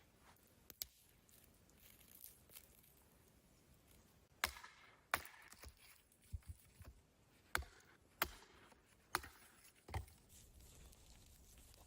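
A series of sharp, short knocks and clicks, unevenly spaced. There is one soft one near the start, then a cluster of about eight louder ones in the middle and later part.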